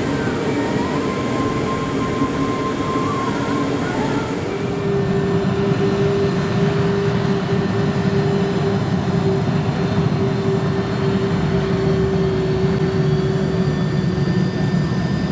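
Aircraft engines running steadily: a broad drone, with a steady hum setting in about four and a half seconds in and a faint high whine slowly rising in pitch through the second half.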